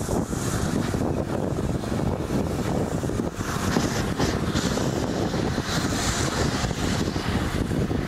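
Steady running noise of a moving heritage railway carriage, with wind buffeting the microphone.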